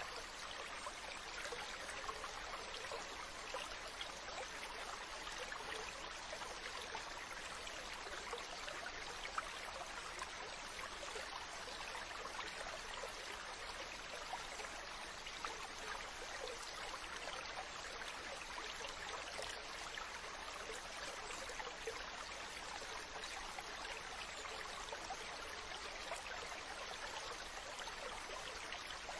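Ocean water making a steady fizzing rush with a fine crackle, even in level throughout rather than rising and falling with separate waves.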